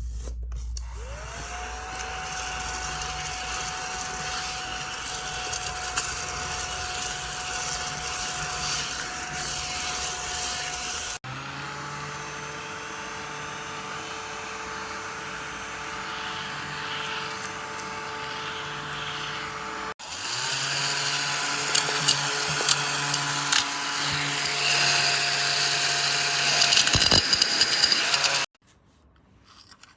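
Small battery-powered mini desktop vacuum cleaner switched on, its motor whine rising and settling into a steady high hum. The hum changes abruptly twice to a slightly different note, runs louder with scattered ticks and rattles near the end, then stops suddenly.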